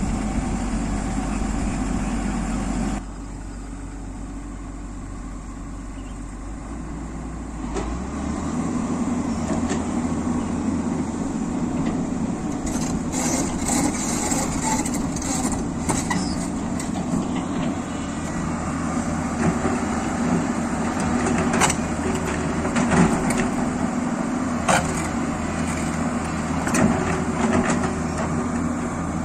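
Excavator's diesel engine running steadily. It drops in level about three seconds in and picks up again around eight seconds. Through the second half come repeated sharp knocks and clanks.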